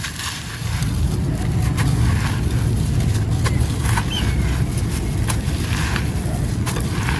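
Light grey gritty sand-cement concrete crumbling, with scattered short crunches over a steady low rumble.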